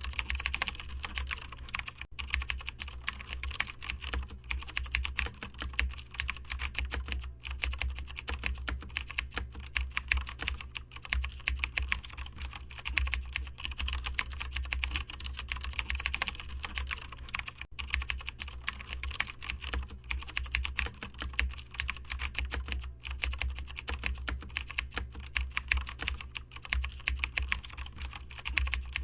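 Continuous rapid typing on a computer keyboard, a dense stream of key clicks with a couple of brief pauses, over a steady low hum.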